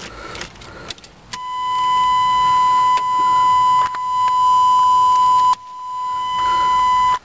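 Dashboard warning tone of a 1990 Chevrolet Suburban, a steady beep sounding for about four seconds, breaking off briefly and then sounding again, as the ignition key is turned on before starting. A few faint clicks are heard before it.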